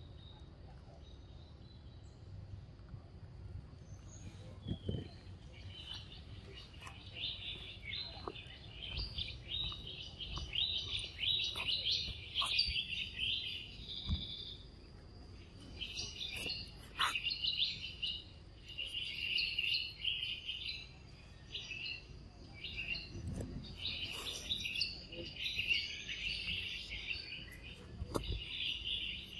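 Birds chirping and twittering in repeated bursts, beginning a few seconds in, with a few scattered soft knocks.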